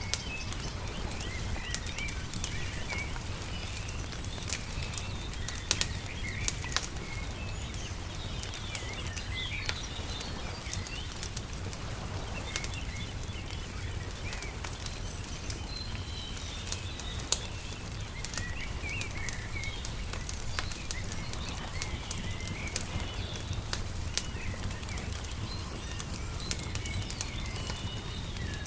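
Wood fire crackling with frequent sharp pops, over small birds chirping, and a low steady rumble underneath.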